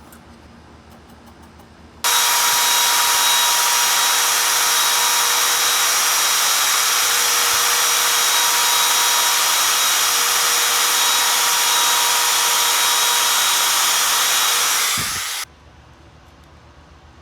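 A power tool running steadily for about thirteen seconds. It starts suddenly about two seconds in and cuts off near the end.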